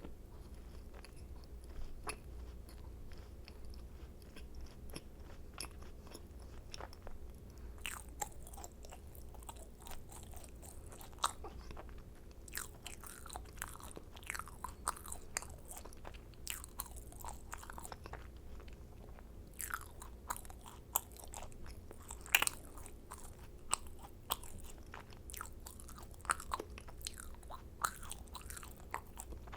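Close-miked eating of macarons: bites and chewing with quick, crisp crackles as the shells break. Sparse and faint at first, then dense clusters of crunches, with a short lull a little past the middle.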